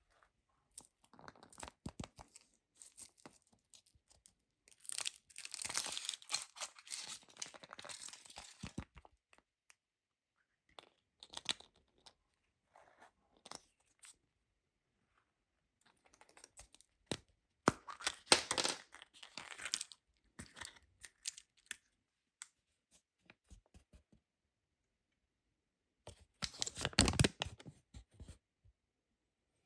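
Crackly tearing and scraping noises in three main bursts, about five, eighteen and twenty-seven seconds in, with scattered small clicks between them: close-up handling and cleaning of a toy vehicle.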